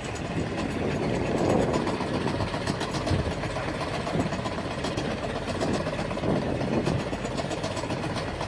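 Small fishing boat's engine running steadily while trolling.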